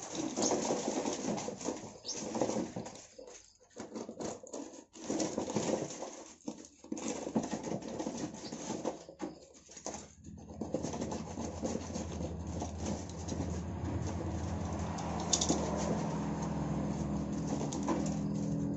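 Small wild-caught songbirds fluttering and scrabbling in irregular bursts. A steady low hum comes in about two-thirds of the way through.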